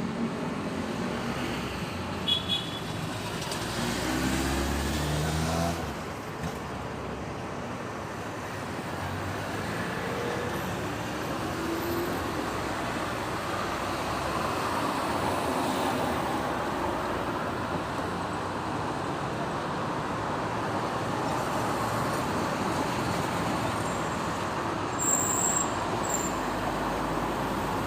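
Steady hum of passing road traffic, with car and truck engines and tyre noise. About four seconds in, a nearby vehicle accelerates with a rising engine note. Brief sharp high-pitched sounds come about two seconds in and again near the end.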